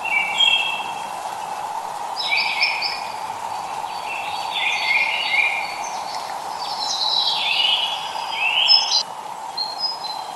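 Songbirds singing phrases of quick stepped chirping notes every second or two over a steady hiss of drizzling rain; the loudest phrase comes near the end.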